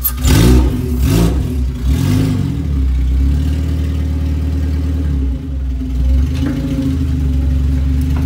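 Honda K-series four-cylinder in a K-swapped EG6 Civic, just started, revved up and back down three times in quick succession, then idling steadily. The idle is being set while slack in the throttle cable is checked.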